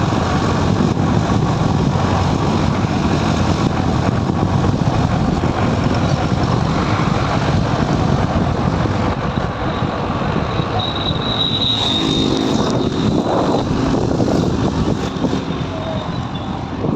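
Steady road noise from a motorcycle ride on a highway: the engine and rushing air make a dense low rumble. A brief high thin tone sounds about two-thirds of the way through.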